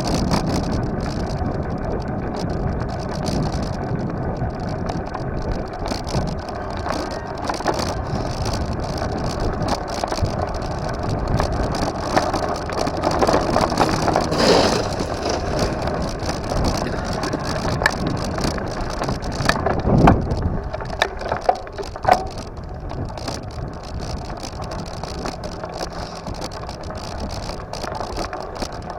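Continuous riding noise from a bike on the move: rumble and wind on the microphone, with scattered knocks and rattles and a sharp knock about twenty seconds in.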